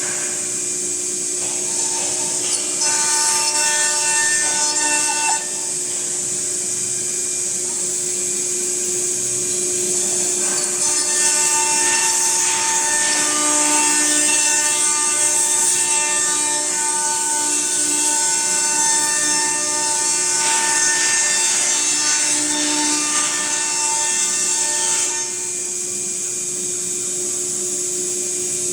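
Two-head CNC router machining wood: a high, multi-pitched spindle whine with cutting noise, over a steady machine hum. The cutting comes in two spells, a short one a few seconds in and a long one of about fifteen seconds in the middle. After that only the hum is left.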